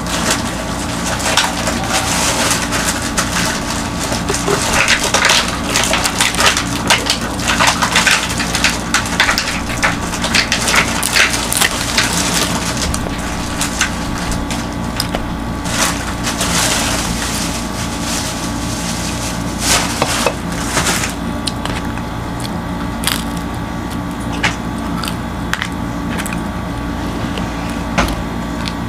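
Close-up eating sounds: crunchy food being chewed, a dense run of crackling crunches that thins to scattered ones after about twenty seconds, over a steady low hum.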